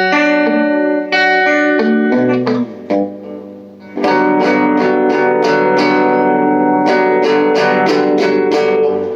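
Electric guitar played through an all-tube amp with the gain all the way up and the tone knob turned down, giving a much cleaner, less fuzzy sound. Ringing chords come first, then about four seconds in a run of picked notes at roughly three a second, which fades out at the end.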